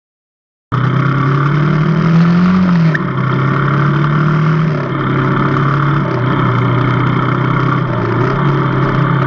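A vehicle engine comes in abruptly about a second in. Its pitch rises briefly around two seconds in, then it settles to a steady idle.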